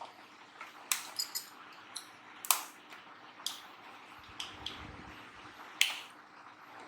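Irregular sharp clicks and taps of the Singer electric sewing machine's plastic housing being handled and closed up after repair. The louder snaps come about two and a half seconds in and near six seconds, with a soft low thump around five seconds.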